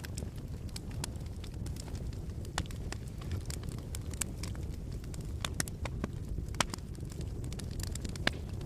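Wood fire crackling in a fireplace: irregular sharp pops and snaps over a steady low noise of burning, with a louder snap near the end.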